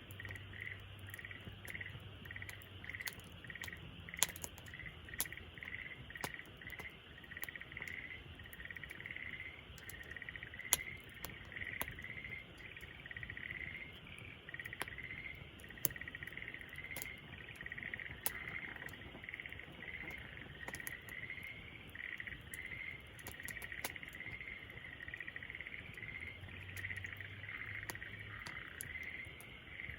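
Wood fire crackling, with sharp pops here and there, over a steady chorus of chirping that pulses a few times a second.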